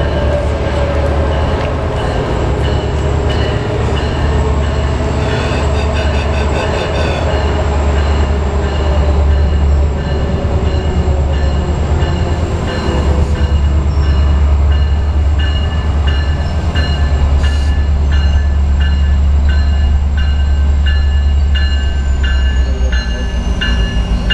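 Metrolink commuter train pulling into the station behind its diesel locomotive, a steady low rumble throughout, with a regular ringing of evenly spaced strikes from about halfway on.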